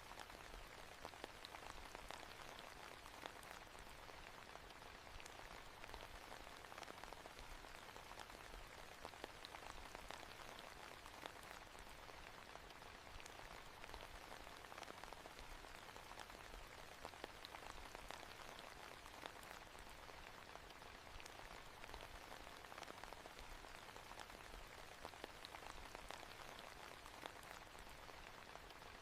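Soft, steady rain: a faint, even hiss with scattered ticks of drops.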